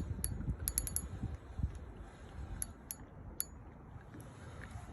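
Fishing reel clicking while a hooked fish is played in: a quick run of sharp clicks in the first second, then a few scattered ones, over low wind rumble.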